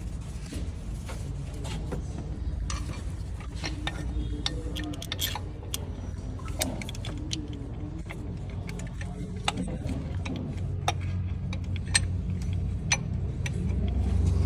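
Scattered small clicks and taps of handled metal over a low, steady hum.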